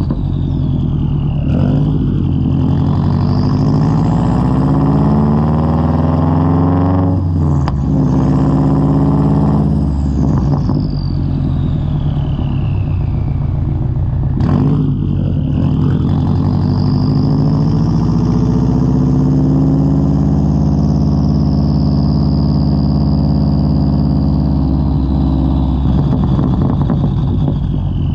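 2003 Subaru WRX's turbocharged flat-four running through a Tomei straight-pipe exhaust while driving. The engine note rises under acceleration, breaks briefly at a gear change about seven seconds in, rises again, then falls away off throttle. After another brief break around fourteen seconds it climbs once more and slowly eases off near the end.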